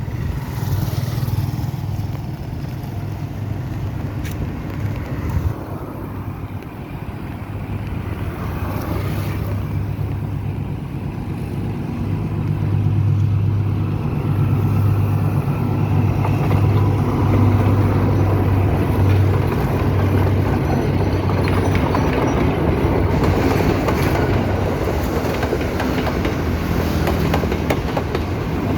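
Sri Lanka Railways diesel train running, its engine a steady low drone, with the rail and wheel noise growing louder about halfway through.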